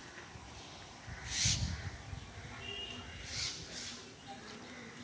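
Birds calling outdoors: a few short, separate calls, the loudest about a second and a half in and again about three and a half seconds in.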